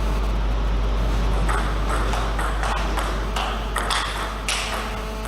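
Table tennis rally: a celluloid/plastic ball clicking back and forth off bats and table, a quick irregular run of sharp ticks starting about a second and a half in and stopping shortly before the end, over a steady low hum.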